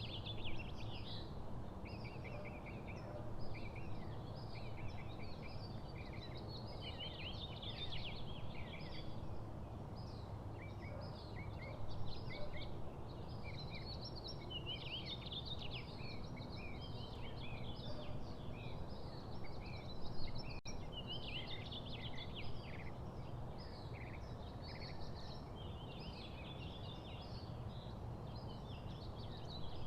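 Several small songbirds chirping and twittering continuously in quick overlapping calls, over a steady low background rumble.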